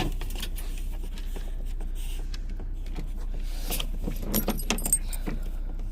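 Metal jingling and clinking from a dog's collar hardware as it is handled, heaviest about halfway through, over a steady low hum.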